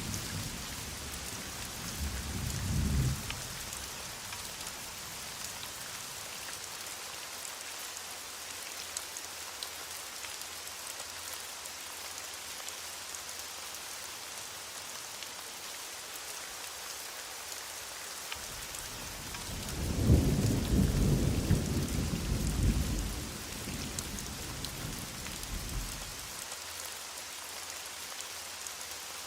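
Heavy rain falling steadily, with a short rumble of distant thunder about two to three seconds in and a longer, louder roll of thunder lasting about six seconds past the middle.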